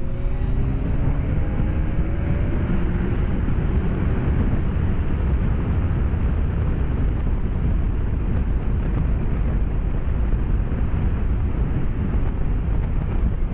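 Wind rushing over a helmet-mounted microphone while a BMW K1200S's inline-four engine runs underneath; the engine note rises over the first few seconds, then holds steady.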